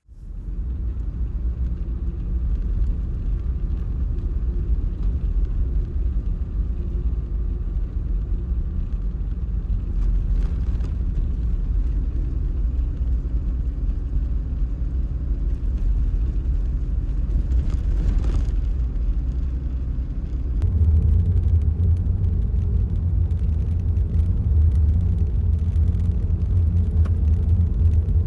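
Car driving, a steady low rumble of road and engine noise that grows louder about twenty seconds in.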